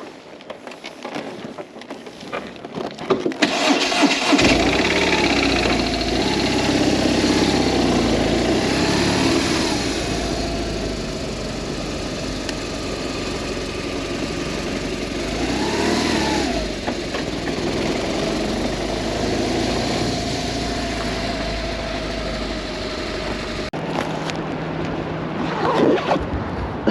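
BMW R1200S boxer twin motorcycle engine starting up a few seconds in and running, its pitch rising and falling with the revs. The sound cuts off abruptly near the end.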